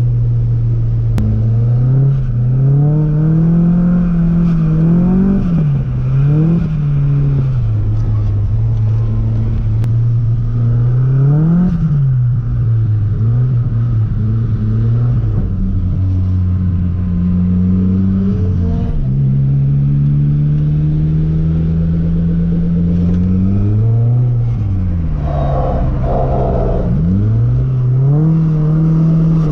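Nissan Silvia S15's engine worked hard while drifting, its revs climbing and dropping back again and again as the throttle is blipped and held.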